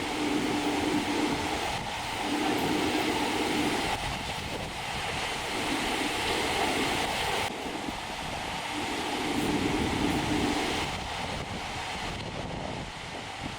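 Strong wind buffeting the microphone over the sound of surf, swelling and easing every two seconds or so as the gusts come through.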